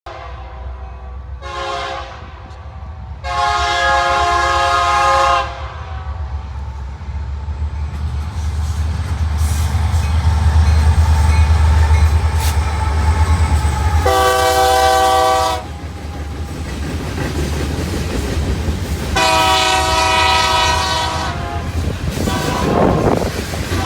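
Diesel freight locomotive, a Union Pacific SD70M, sounding its air horn: one short blast, then three longer blasts spread over the following twenty seconds, over the low rumble of the locomotive, which grows louder in the middle as the train approaches.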